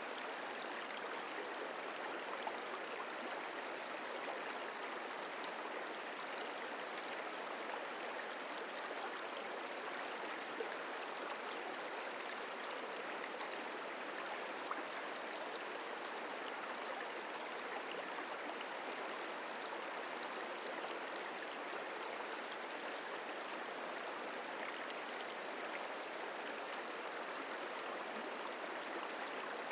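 The Merced River flowing, a steady, even rush of water.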